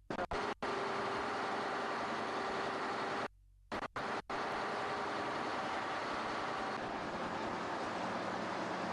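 Steady engine drone and hull noise aboard a ship, with faint steady tones in it. It cuts out briefly at the start and for about half a second a little past three seconds in.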